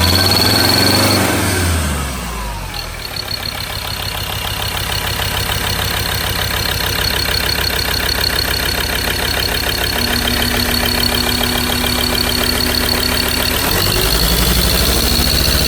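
Ford Ranger 3.2-litre turbo diesel engine settling from a rev down to a steady diesel idle, then revved up again near the end and held at higher revs.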